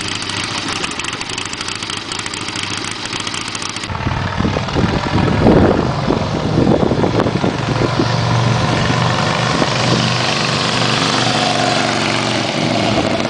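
Freshly rebuilt engine running on its first start after the rebuild. About four seconds in the sound changes abruptly, becoming louder and lower, with uneven pulses over a steady low hum.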